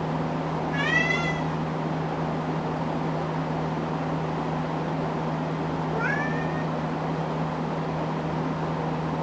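A cat meowing twice, a short rising meow about a second in and a fainter one about six seconds in, over the steady hum and airy noise of a running Casablanca Delta ceiling fan.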